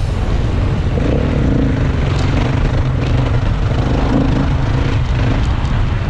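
Dirt bike engine running, its note rising and falling slightly.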